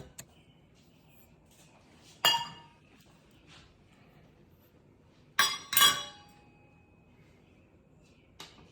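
Kitchen utensil clinking against a glass dish: a sharp clink a couple of seconds in, two more in quick succession past the midpoint that ring briefly, and a faint one near the end.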